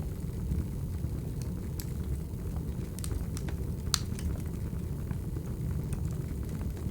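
Crackling wood fire: a steady low rumble of burning logs with scattered sharp pops and snaps, the loudest about four seconds in.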